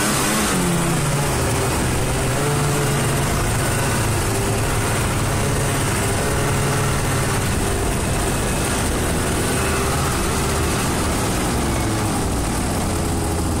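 Single-cylinder four-stroke engine of a Yamaha WR400 on a tracked snow-bike conversion, running steadily. The revs drop about a second in and settle lower again near the end.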